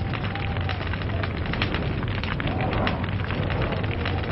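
Wood log fire crackling: dense, irregular snaps and pops over a steady low rumble of burning.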